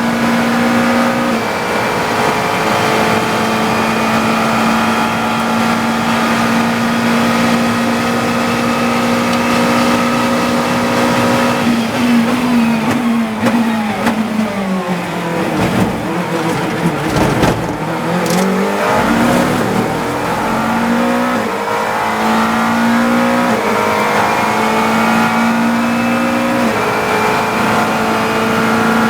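GT3 race car engine heard from onboard. It runs at a steady high pitch flat out, then about twelve seconds in it brakes down through a series of downshifts, and from about nineteen seconds it accelerates back up through the gears with several quick upshifts before settling at a steady pitch again near the end.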